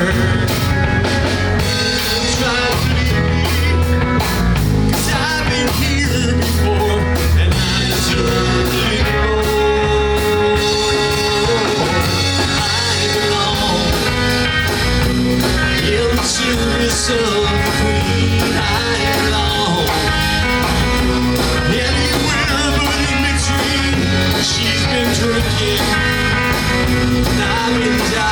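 Rock band playing an instrumental passage, with electric guitar, bass guitar and a drum kit keeping a steady beat.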